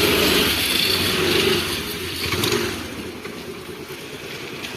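Motor scooter engine running, loud at first and easing off from about two seconds in.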